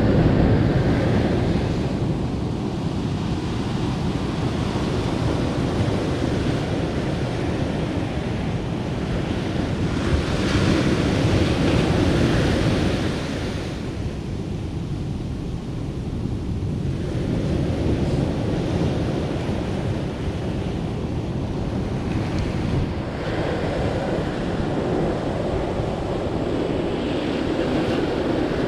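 Ocean waves breaking on a beach, a continuous surf wash that swells and ebbs, loudest about ten to thirteen seconds in. Wind buffets the microphone throughout.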